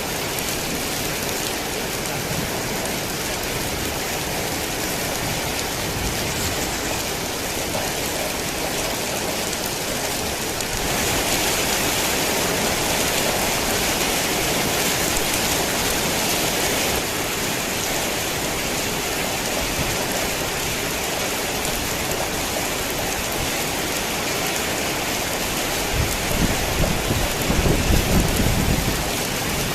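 Heavy rain falling steadily, swelling louder for several seconds about a third of the way in. Near the end a low rumble of thunder rolls in under the rain.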